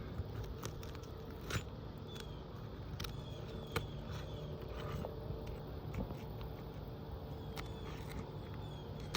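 Scattered light clicks and scrapes of hand work on an asphalt shingle roof, irregular and a second or so apart, over a steady low hum.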